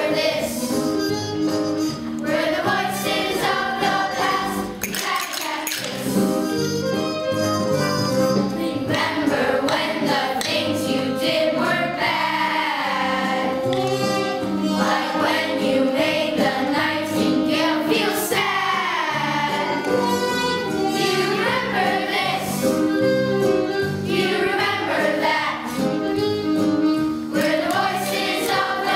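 A group of children singing together as a choir, with music behind them.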